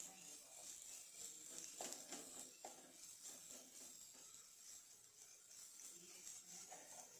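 Faint sizzling of a vegetable filling frying in oil in a nonstick pan, with a few soft scrapes and taps of a steel ladle stirring it about two seconds in.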